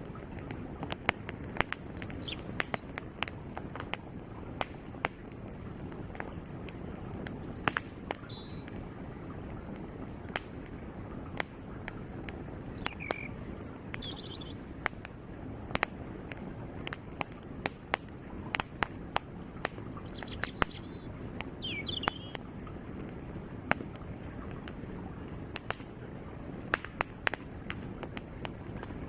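Wood fire crackling, with frequent sharp pops and snaps of burning firewood over the steady rush of a flowing creek. A few short bird chirps come in between.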